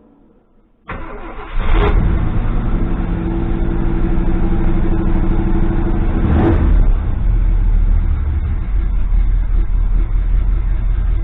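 1973 Ford F-250 engine starting about a second in, then running loud and steady, with two short swells in revs, one soon after it catches and one about six seconds in.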